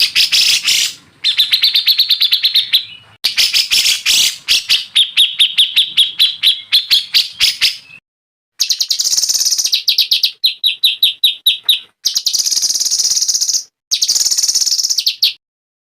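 Cage songbirds singing loud, fast trills of repeated high chirps in short segments that cut off abruptly, the spliced song of a masteran bird-song training recording.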